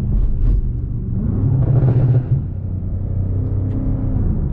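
BMW M5 Competition's twin-turbo V8 under way. The revs climb for about a second, drop suddenly just past two seconds in, then hold steady with road rumble underneath.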